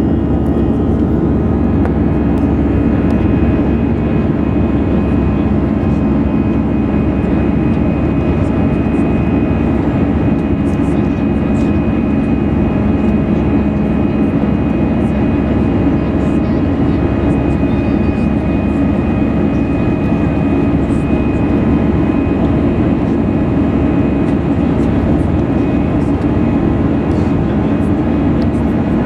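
Airbus A320-214's CFM56 jet engines heard from inside the passenger cabin, running at a steady setting: an even rumble with a thin, constant high whine.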